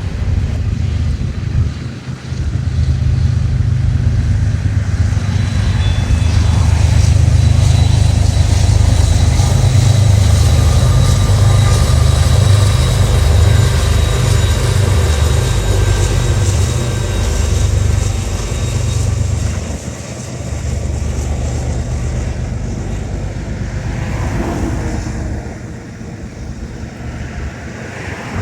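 Train passing close by: a heavy low rumble of locomotives and rolling cars that builds a couple of seconds in, stays loud through the middle and eases off after about twenty seconds, with faint high squeals over it.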